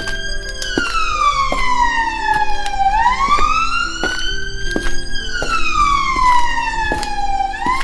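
Police siren wailing, its pitch rising over about two seconds and falling over about two more, twice through, over background music with a steady beat.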